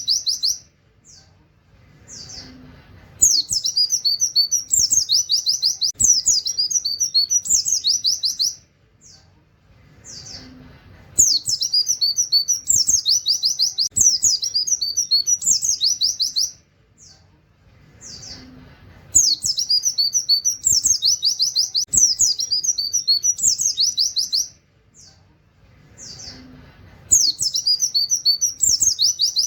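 White-eye (pleci) singing: bouts of about five seconds of fast, high trills and canary-like 'wit-wit' notes, each followed by about three seconds of pause with a few single chirps, the same bout repeating every eight seconds.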